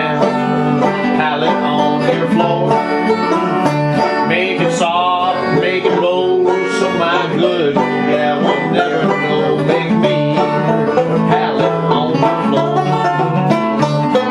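Fingerpicked acoustic string instruments playing an old-time blues tune in D, with no singing.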